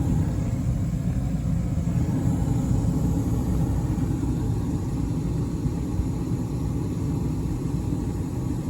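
Carrier gas furnace running with a steady low rumble, having just kicked back on for a heating cycle.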